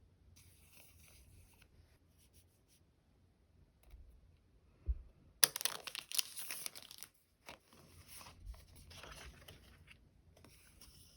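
A sticker being peeled off its backing sheet with a crackling, tearing sound, loudest for about a second and a half just past the middle, among softer rustles of plastic packaging and a light knock on the desk.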